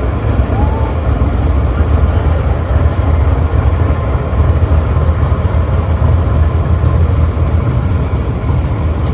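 GE U40 diesel-electric locomotive idling with a steady, loud low rumble.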